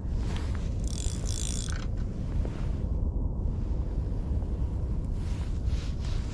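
Shimano Twinpower spinning reel being cranked during a lure retrieve, a soft mechanical whirr, over a steady low wind rumble on the microphone. A brief higher rattle comes about a second in.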